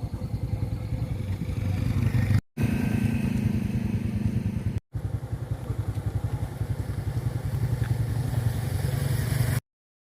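Motorcycle engine running with a steady low pulse. It cuts out abruptly twice for a split second and stops dead near the end.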